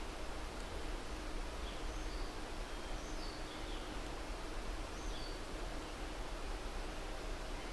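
Outdoor ambience: a steady hiss over a low rumble, with faint short bird chirps a few times.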